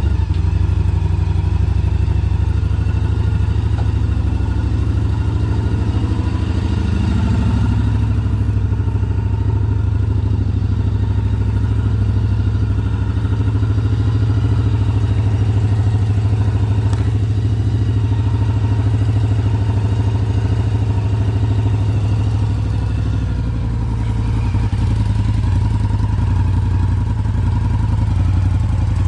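Yamaha BT1100 Bulldog's air-cooled V-twin idling steadily through LeoVince SBK aftermarket silencers, a deep, even exhaust note.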